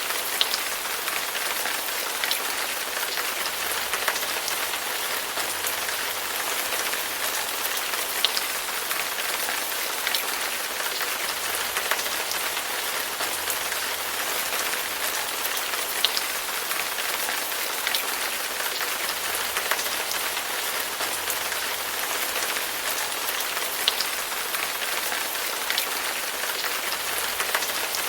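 Steady rain falling, an even hiss with now and then a single louder drop striking close by.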